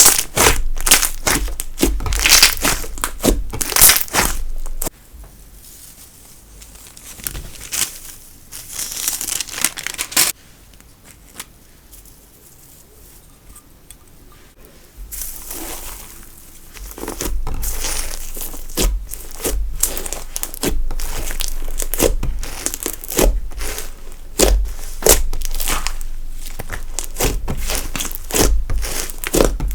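Slime being kneaded, pressed and stretched by hand, giving dense runs of wet crackling and popping. It goes much quieter for several seconds in the middle, then picks up again.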